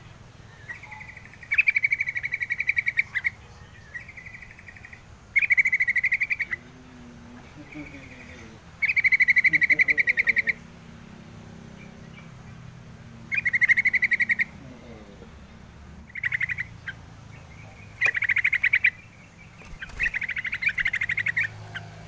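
A bird giving rapid, buzzy trilled calls, repeated eight or nine times with short pauses between them; each trill lasts about a second.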